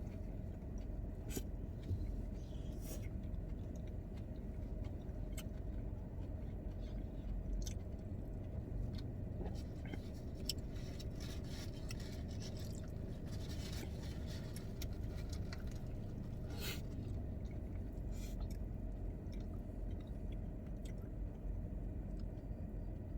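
Close-up chewing and biting of In-N-Out food, with scattered short clicks and rustles over a steady low hum.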